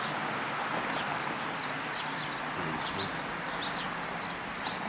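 Steady hiss of light rain falling straight down, with several birds chirping in short, repeated calls over it.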